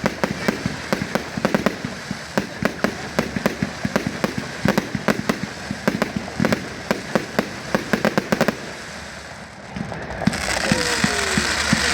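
Fireworks finale: a rapid barrage of bangs and crackles, several a second, that stops about eight and a half seconds in. A crowd then starts applauding and cheering.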